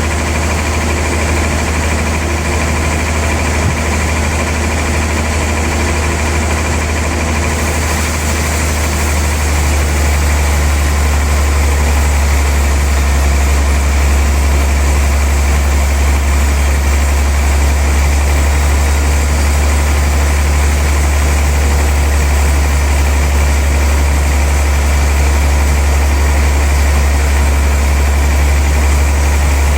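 Sawmill machinery running steadily with a deep hum; about eight seconds in it grows louder and a hiss joins it.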